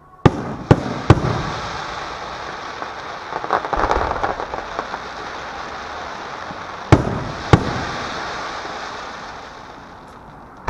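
Aerial fireworks bursting: three sharp bangs in the first second, a stretch of crackling about four seconds in, then two more bangs around seven seconds, with a crackling hiss fading toward the end.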